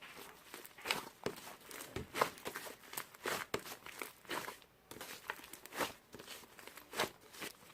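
Slime being played with by hand, making irregular crackles and pops several times a second.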